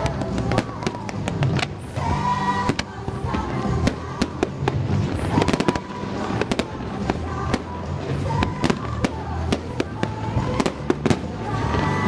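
Fireworks bursting and crackling in quick irregular succession, with many sharp bangs throughout, over Christmas music playing along with the display.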